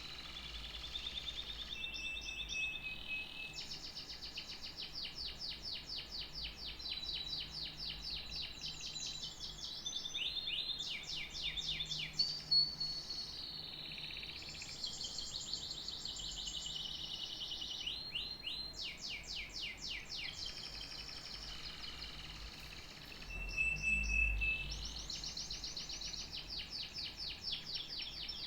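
Canary singing a long song of rapid trills and rolls, mixed with held whistled notes, broken by short pauses. A brief low thud sounds under the song about 24 seconds in.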